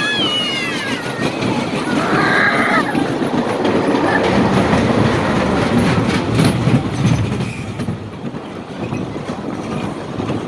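Small children's roller coaster train running along its track, with a steady wheel rumble and rattle and scattered clicks and clacks from the cars.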